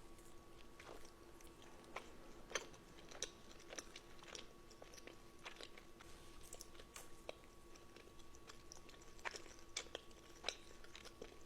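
Close-miked chewing and biting, with scattered crisp crunches and mouth clicks at an irregular pace, over a faint steady hum.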